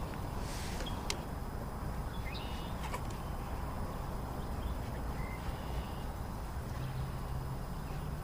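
Steady low outdoor rumble with faint, short bird chirps and a couple of sharp clicks; a low steady hum comes in near the end.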